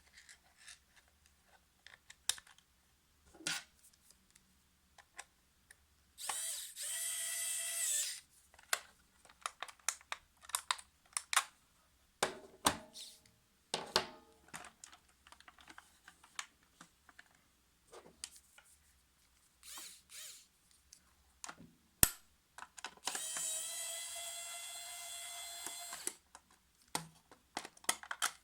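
A 1:16-scale remote-control toy car's small electric drive motor whirring in two steady bursts of about two and three seconds. Scattered clicks and knocks of hard plastic being handled run through the rest.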